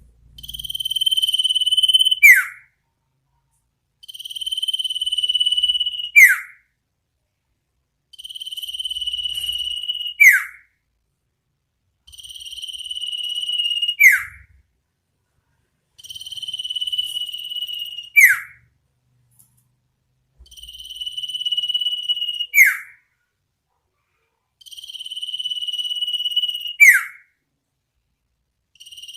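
An iora (sirtu) repeating its 'ngetir-nyipow' call about once every four seconds. Each call is a long, steady, high whistle that grows louder for about two seconds, then ends in a quick, sharply falling note.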